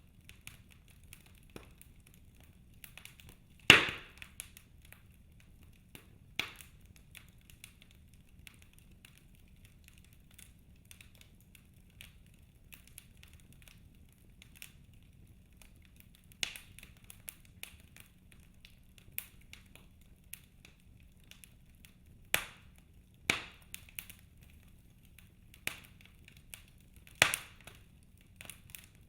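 Logs burning in a fireplace, crackling: scattered sharp pops and snaps over fainter ticking. The loudest pop comes about four seconds in, with a cluster of strong pops in the second half.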